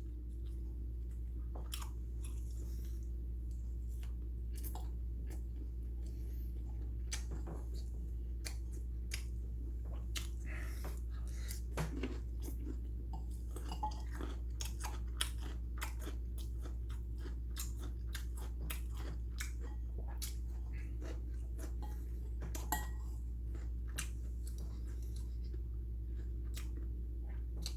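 A person chewing and biting food, with many short wet clicks and crunches throughout, over a steady low hum.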